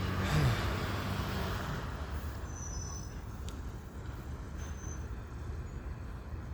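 Garbage truck's diesel engine running in a steady low rumble, with two short high-pitched squeals, about two and a half seconds in and again near five seconds.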